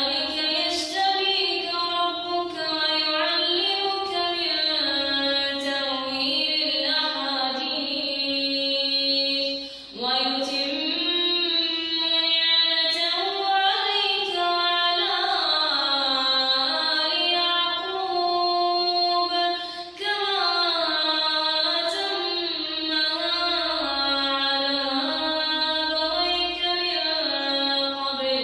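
A girl reciting the Quran in a melodic chanted style, one high voice drawing out long, ornamented notes, with short breaks about ten and twenty seconds in.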